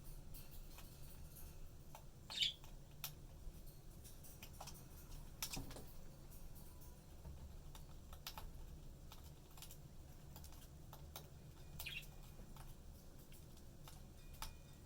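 Budgies sharpening their beaks, a scattered run of small clicks and scrapes of beak on a hard surface. A short chirp about two seconds in and another near the end.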